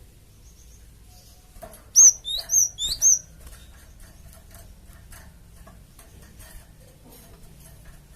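Cinereous tit (gelatik batu) calling: a quick series of four sharp, high chirping notes about two seconds in, followed by faint scattered ticking notes.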